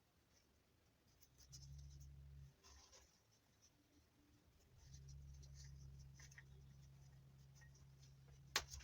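Faint scratchy rubbing as PTFE thread tape is wrapped around the threads of a plastic P-trap adapter, with a low hum that comes and goes and a sharp click near the end.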